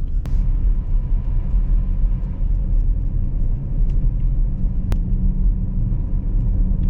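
Car road noise heard from inside the cabin while driving: a steady low rumble. A sharp click comes just after the start and another about five seconds in.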